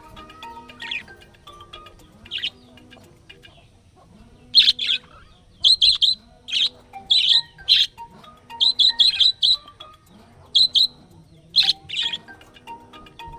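A small pet parrot chirping in clusters of short, sharp, loud calls from about four to twelve seconds in, over quieter background music with a repeating beat.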